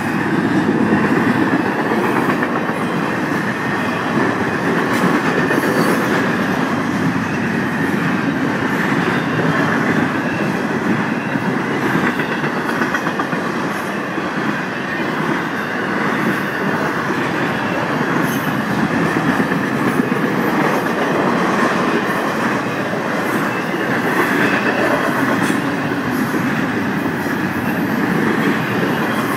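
Intermodal freight train cars rolling past: a steady rumble of steel wheels on the rails, with light clicking from the wheels over the rail joints.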